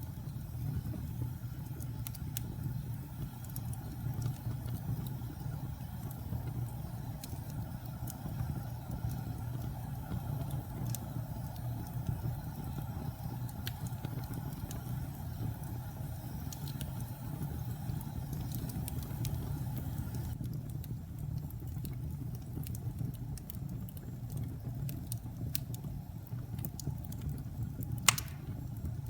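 Wood logs burning in a fireplace: a steady low rumble of the flames with scattered small crackles, and one louder pop near the end.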